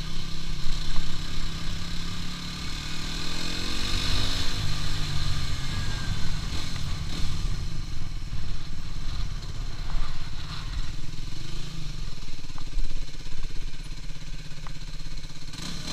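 Aprilia RS4 125's single-cylinder 125 cc four-stroke engine running under way, heard from the rider's position, its pitch shifting a few seconds in. Wind rushes over the microphone throughout.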